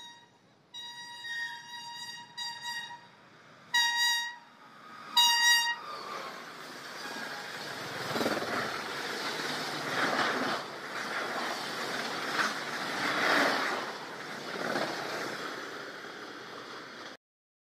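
An express passenger train's horn sounds a run of short toots, then two louder blasts about a second and a half apart as the train approaches. The train then passes through at speed, its coaches giving a steady rushing clatter over the rails that cuts off suddenly near the end.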